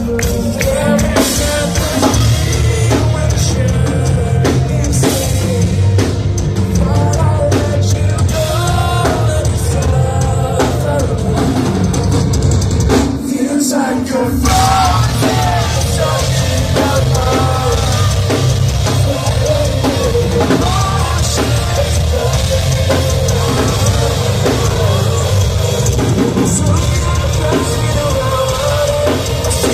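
Live rock band playing loudly, with a sung vocal over a driving drum kit and bass. About thirteen seconds in, the drums and bass cut out for roughly a second, then the full band comes back in.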